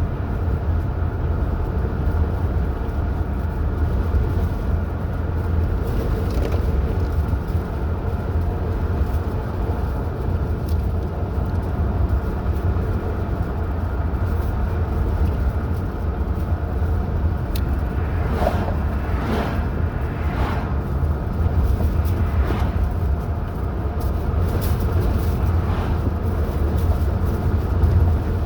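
A car driving along a highway, with steady low road and engine rumble. A few brief swells of higher noise come in the second half.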